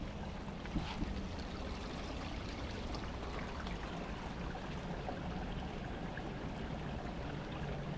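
Steady hiss of rain falling through the woods, an even patter with no break.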